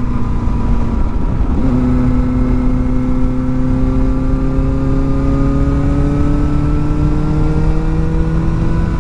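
Kawasaki ZX-4R's inline-four engine through a new aftermarket exhaust, running low and steady. Its note breaks off briefly about a second in, then rises slowly and evenly in pitch.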